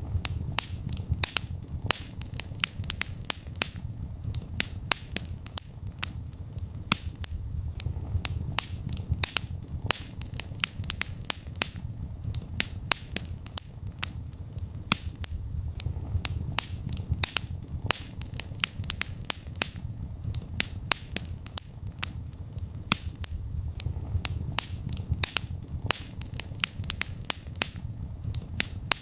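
Wood fire crackling in a fireplace: frequent, irregular sharp pops and snaps over a steady low rumble of burning.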